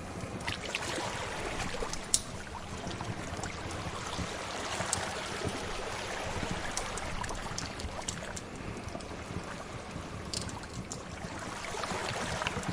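Sea waves washing steadily, with scattered sharp crackles and pops from a wood fire; the loudest pop comes about two seconds in.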